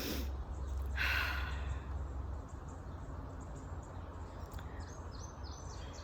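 A person sighs or breathes out heavily twice in the first second or so, over a steady low rumble. Near the end small birds chirp in quick, repeated high notes.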